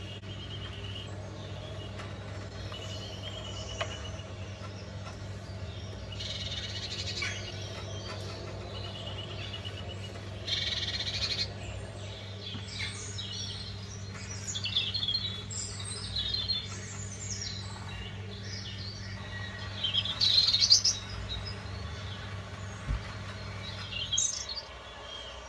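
Small birds chirping in short, scattered calls, loudest about twenty seconds in, over a steady low hum that stops near the end. Two brief hissy noises come about six and ten seconds in.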